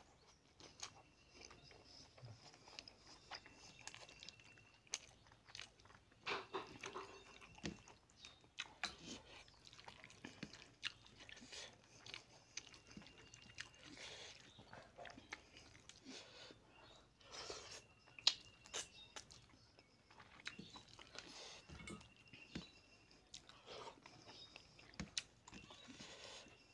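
Chewing a mouthful of rice and tilapia fish head curry, with wet mouth noises and small irregular clicks.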